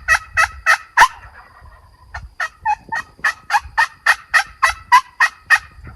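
Wild turkeys calling at close range in two runs of quick, loud notes about four a second. The first run ends about a second in, and the second runs from about two seconds in until shortly before the end.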